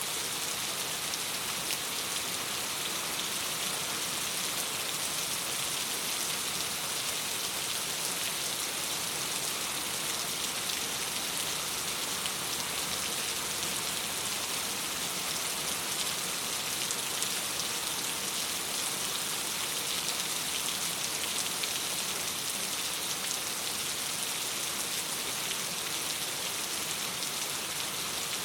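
Steady rain falling: an even, unbroken hiss of many fine drops, strongest in the high range.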